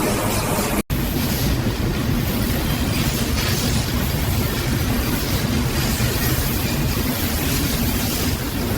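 Steady industrial machinery noise: a dense rumble with a low hum and hiss, cut off for an instant about a second in, then running on unchanged.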